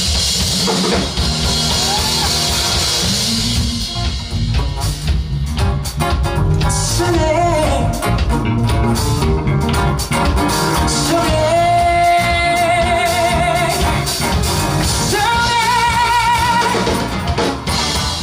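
Live song: a singer holding long, wavering notes with vibrato over a full band with drums.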